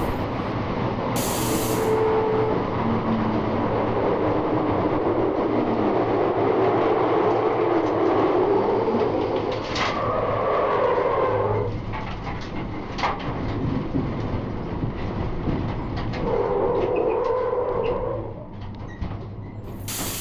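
In-car noise of a 1971 HQ Holden race car on track: engine and drivetrain running with steady road rumble and rattling, and a couple of sharp clicks partway through.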